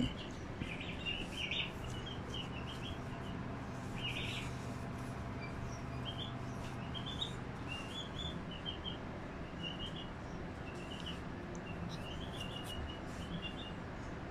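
Small birds chirping in short runs of quick high notes throughout, over a faint steady low hum.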